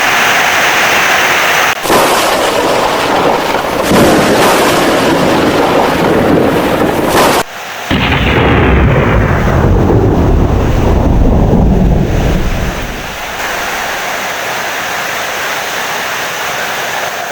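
Heavy rain with rolling thunder. Two short sudden breaks come early, and a deep rumble of thunder swells about halfway through, then fades away over the last few seconds.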